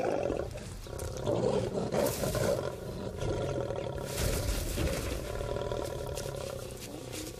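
A lioness growling and roaring as she charges, in several loud rough bouts, the strongest at the start and again a second or two in: a defensive charge by a lioness guarding cubs.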